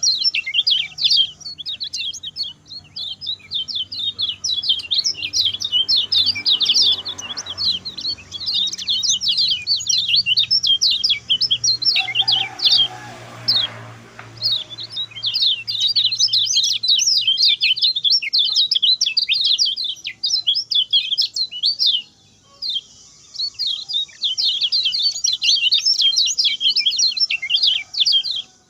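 Lemon-bellied white-eye (kecial kuning) singing a fast, unbroken stream of high chirping notes, pausing briefly a few seconds before the end. A faint low hum runs under the song in the middle.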